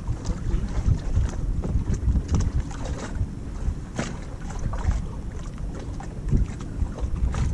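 Kayak paddle dipping and splashing in the water at an irregular pace, over a steady low rumble of wind buffeting the microphone.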